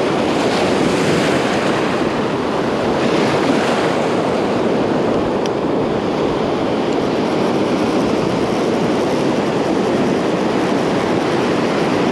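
Ocean surf breaking on a beach, a steady wash of waves with wind buffeting the microphone.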